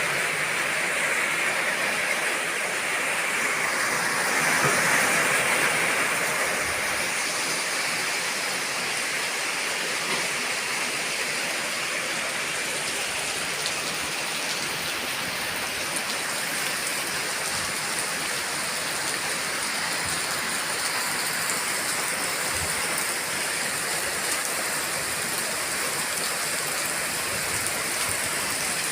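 Heavy rain falling in a steady downpour, a little louder about five seconds in.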